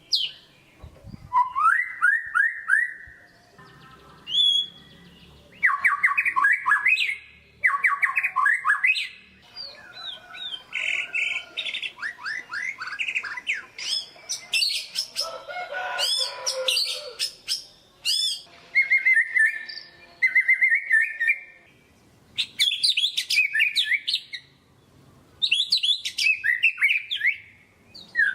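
White-rumped shama singing: a run of varied phrases of rapid, repeated whistled and chattering notes, each phrase a second or two long, one after another with short pauses.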